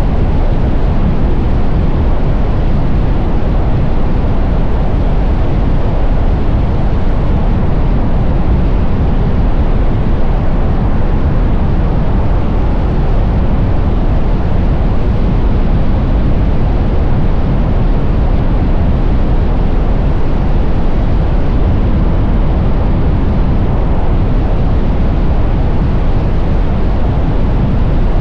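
Steady rush of wind buffeting the camera microphone on a moving electric motorcycle, with road noise and no engine note.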